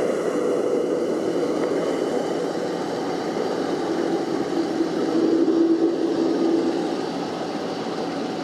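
Jet airliner engines running: a steady rushing hum with a held low whine that swells louder about halfway through, then eases.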